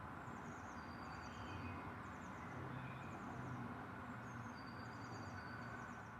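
Birds chirping in short, rapid trills every second or so over a steady low rumble of outdoor background noise.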